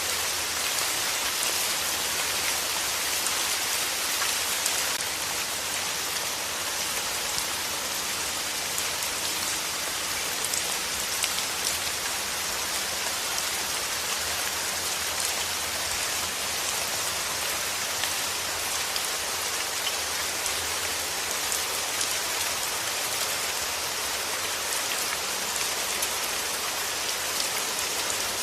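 Steady rain falling: an even hiss of many drops, with faint scattered ticks of individual drops.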